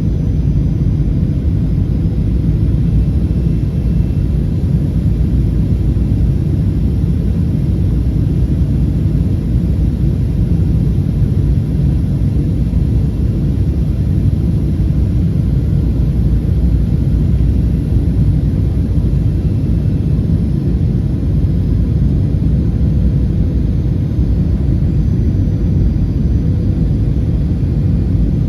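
Steady low rumble of cabin noise inside a Boeing 737-800, the sound of its CFM56-7B engines and the air rushing past the fuselage, with a faint steady hum above it.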